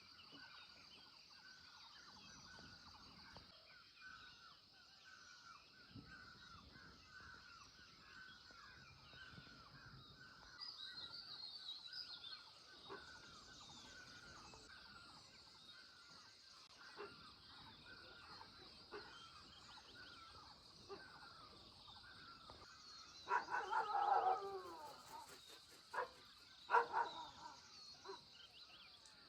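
Rural outdoor ambience: a steady high insect drone and many short repeated bird chirps. Loud domestic fowl calls break in about three-quarters of the way through and again near the end.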